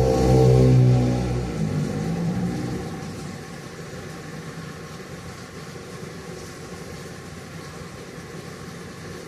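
A motor vehicle passes close by, its engine note falling in pitch and fading away over the first three seconds. A steady hiss of rain runs underneath.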